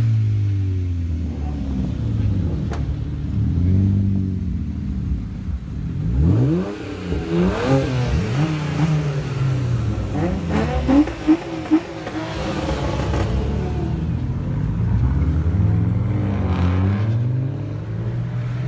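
Car engines revving and accelerating past, their pitch rising and falling in sweeps; three short, loud rev blips come a little after the middle.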